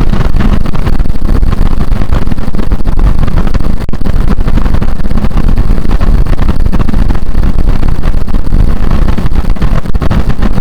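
A car driving at expressway speed, heard from inside: a steady, loud rumble of road and wind noise.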